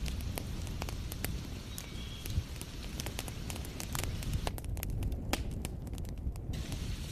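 Wood fire crackling, with many sharp irregular pops, over a steady low rumble and the even hiss of heavy rain; the hiss thins for a moment past the middle.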